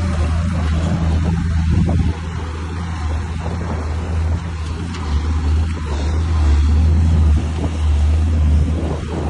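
Heavy diesel engine of earthmoving machinery running under load, a deep steady drone that dips slightly about two seconds in and swells again later.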